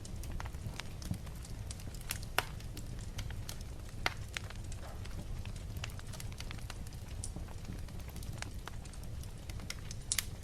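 Fire in a fireplace crackling, with irregular sharp pops over a low steady rumble; the loudest pops come about two and four seconds in and again near the end.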